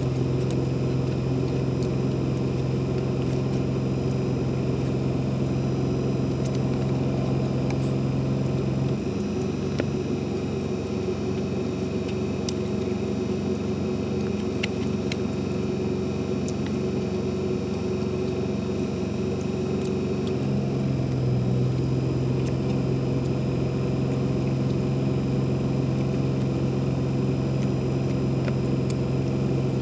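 A steady engine-like hum with a strong low tone; for about twelve seconds in the middle its pitch shifts and it turns rougher, then it settles back. Faint small clicks come through now and then.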